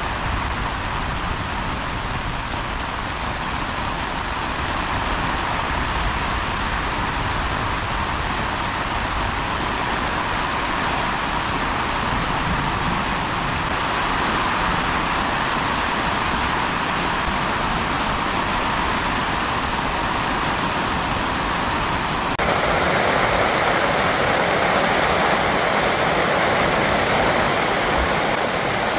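Heavy rain falling in a steady, dense hiss. About three quarters of the way through, the sound shifts abruptly to a louder, brighter hiss.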